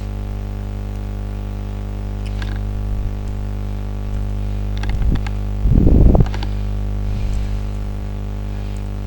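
Steady electrical mains hum, with scattered clicks and knocks of a battery cell and clip being handled. About six seconds in there is a brief, loud rustling bump.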